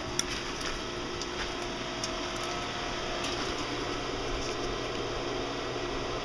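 A steady mechanical whir with a faint low hum running under it, and a few faint clicks in the first seconds.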